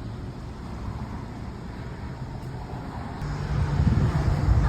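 Car driving: steady low road and engine rumble, growing louder about three seconds in.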